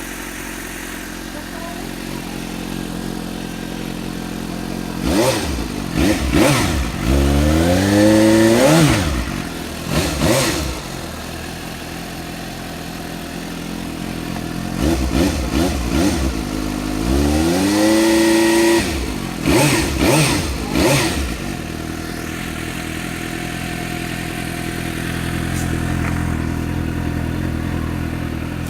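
Suzuki GSX 750 inline-four on its stock, unmodified exhaust, idling and revved twice. Each time there are a few quick throttle blips, then a rev held and rising, then more blips, before it drops back to idle.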